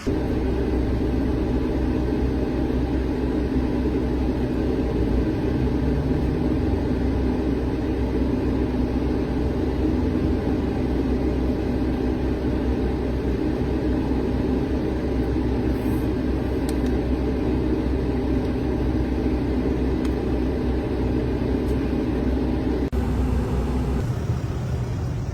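Steady whirring rumble of automatic car wash machinery running.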